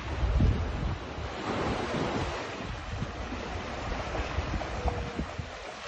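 Wind buffeting the microphone in irregular low gusts over a steady rushing noise, the strongest gust about half a second in.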